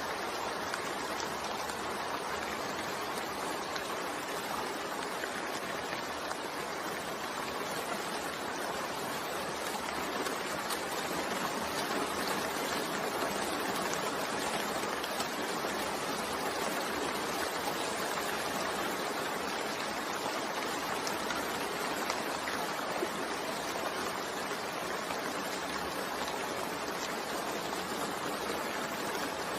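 Steady rainfall: a continuous even hiss of rain with faint scattered drop ticks.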